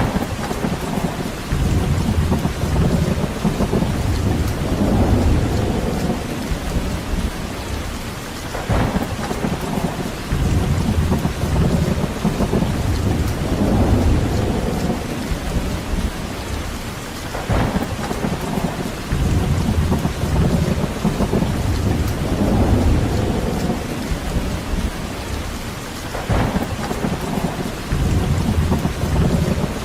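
Steady rain falling, with deep rumbles of thunder or wind that swell and fade over and over, in a cycle of about nine seconds, each cycle broken by a brief sharper swish.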